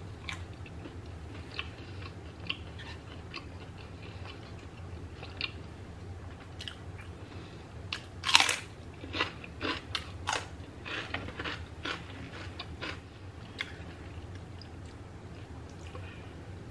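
Close-up mouth sounds of eating: soft chewing of a quesadilla, then a loud crisp bite into a raw celery stick about eight seconds in, followed by a run of crunchy chews over the next few seconds that fade out.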